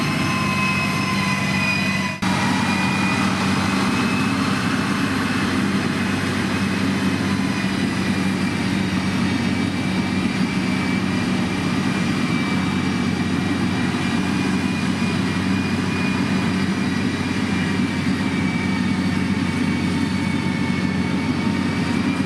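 Heavy motor grader's diesel engine running steadily under working load, a continuous low hum with a thin high whine above it. A brief dip in level comes about two seconds in.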